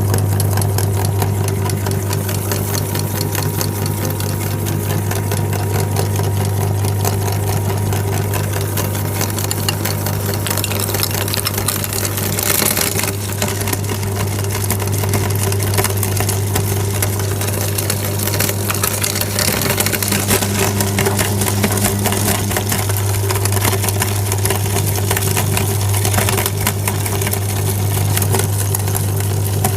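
Electric meat grinder running steadily, its motor giving a strong low hum with dense crackling and clicking as it grinds.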